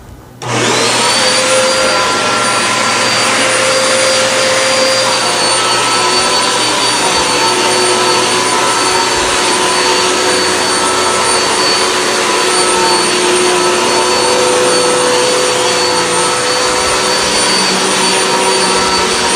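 Hoover WindTunnel High Capacity upright vacuum cleaner switched on about half a second in. Its motor spins up quickly with a rising whine, then runs steadily at full power while cleaning carpet.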